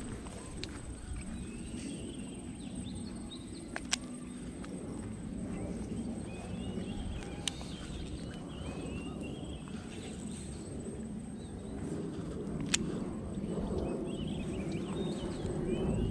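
Small birds chirping in short twittering phrases several times, over a steady low outdoor rumble, with a few single sharp clicks.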